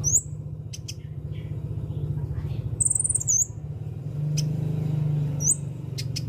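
Konin bird calling in short, very high notes: a quick rising chirp at the start, a brief trill about three seconds in, and another rising chirp near the end, with a few sharp clicks. A steady low hum runs underneath.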